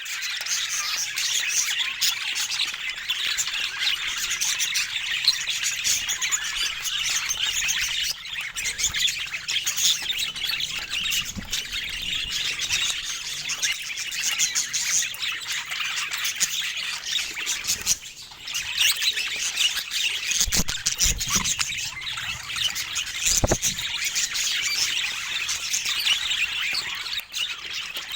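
Pet budgerigars chattering and warbling almost without a break, dense and high-pitched, with a short lull about two-thirds of the way through and a few low thumps soon after.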